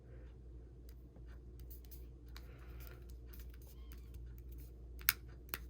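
Light ticks and scratches from handling an opened iPhone 6 as its replacement battery is pressed into place. Two sharper clicks come near the end, over a faint steady low hum.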